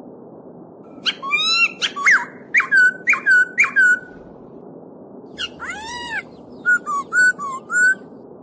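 A songbird singing two runs of loud, clear whistled notes that slide in pitch, over the steady rush of a flowing stream.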